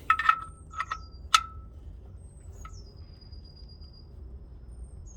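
Three or four sharp metallic clinks of a hand tool against the car's metal, each leaving a short ring, within the first second and a half, then quiet work.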